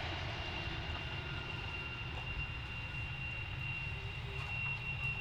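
Distant jet aircraft engine: a steady low rumble with a thin high whine held at one pitch.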